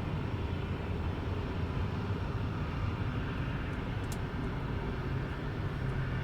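Steady low rumble of distant jet airliner engines.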